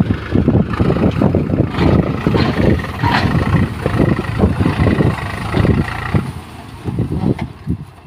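Diesel engine of heavy earthmoving machinery running, with an uneven low chugging and a faint high whine; the sound drops back about seven seconds in.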